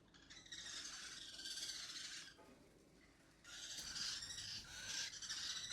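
A pet parrot hissing: two long breathy hisses with a short pause between them.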